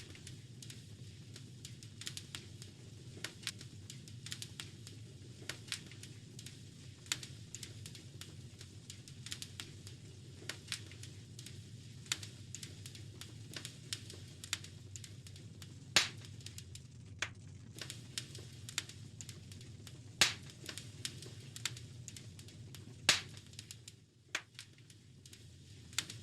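Fireplace fire crackling: irregular sharp snaps and pops over a steady low rumble, with a few louder pops in the second half.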